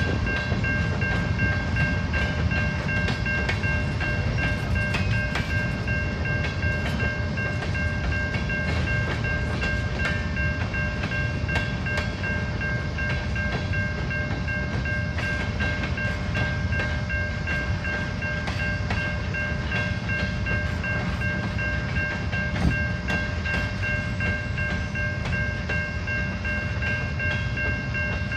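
A train rolling past: a steady low rumble of wheels on rail with many light clicks, and steady high ringing tones held throughout.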